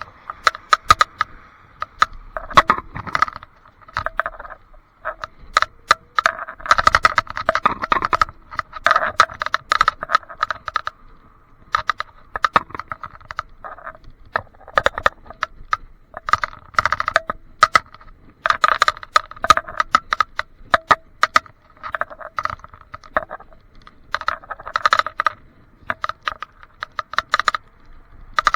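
Rapid, irregular rattling and clicking in bursts of a few seconds with short breaks, picked up by a handlebar-mounted action camera inside its waterproof housing. The owner does not know what causes the rattle.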